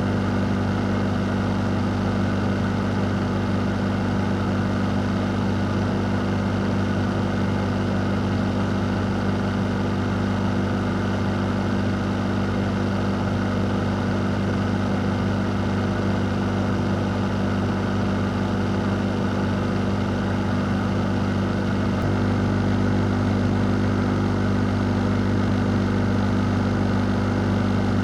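Electric fan running steadily: an even airy whoosh over a low motor hum, becoming slightly louder about three-quarters of the way through.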